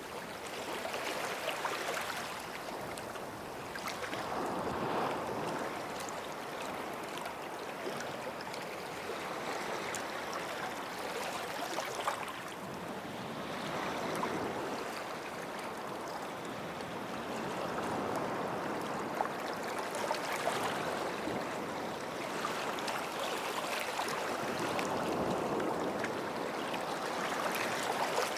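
Small sea waves washing onto the shore, the sound swelling and falling back every few seconds.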